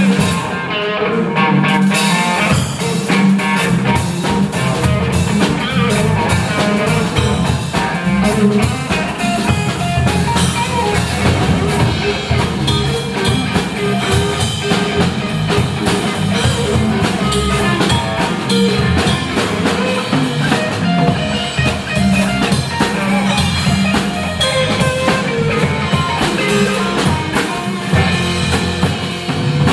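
Live band music with guitar and drum kit, playing steadily.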